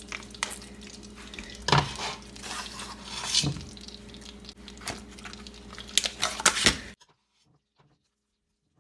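A spoon or knife clinking and knocking against a cooking pot as butter is added, over a steady low hum. The sound cuts off abruptly about seven seconds in.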